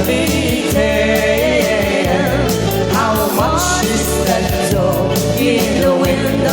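Live band music with a steady bass and drum beat and a sung melody line over it.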